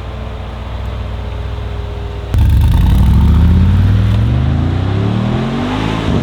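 Brabus XLP 800 6X6's turbocharged 4.0-litre V8 running at a steady note. A little over two seconds in it turns suddenly louder and accelerates hard, its pitch rising steadily for several seconds.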